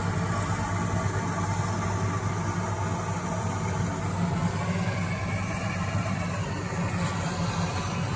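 Engine of a rice harvesting machine running at a steady speed, a constant low hum with no change in pace.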